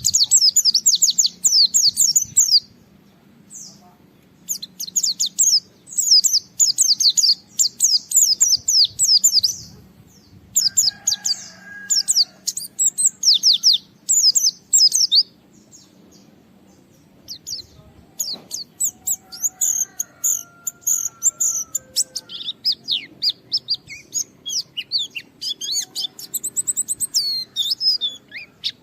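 White-eye (pleci) singing hard in rapid, high-pitched twittering phrases a few seconds long, with short pauses between them, plus a few fainter, lower drawn-out notes.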